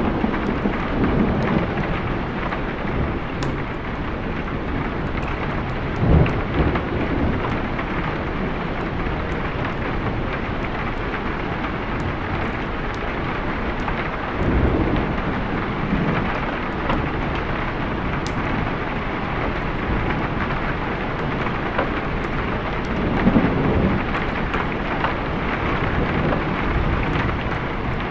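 Steady rain with low rolls of thunder rumbling up a few times, roughly every eight or nine seconds.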